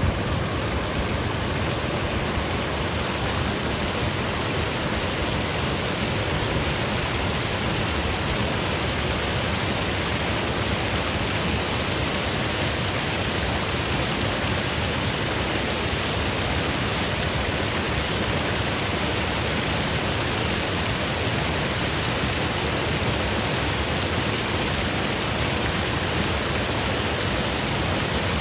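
Creek water rushing over rocks and small check dams, a steady, even rush of water with no breaks.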